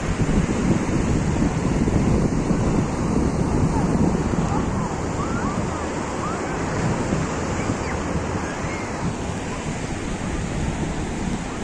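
Surf breaking on a beach, with wind buffeting the microphone into a steady rumble. A few faint short high calls come through about halfway through.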